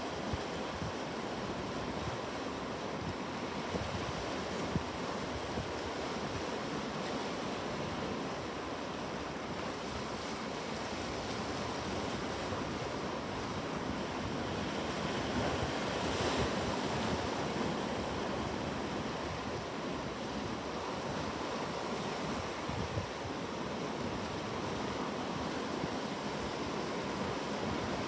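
Ocean waves washing on a shore in a steady surf, swelling a little louder about halfway through.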